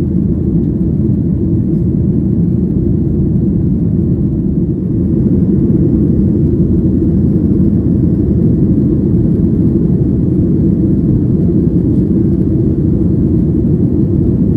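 Steady low rumble of a jet airliner's engines and airflow, heard from inside the passenger cabin, growing a little louder about five seconds in.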